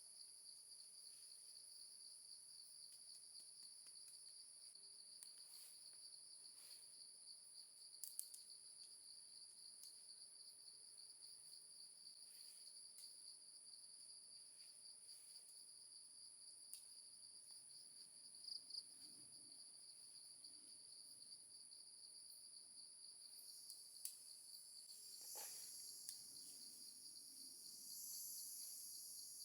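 Faint, steady high insect trill, a continuous pulsing chirr like crickets. A few soft clicks and knocks come and go over it, the clearest about eight and twenty-four seconds in.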